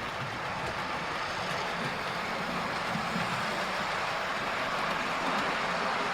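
00 gauge model train running on the layout's track: a steady rolling rumble of wheels and motor that slowly grows a little louder.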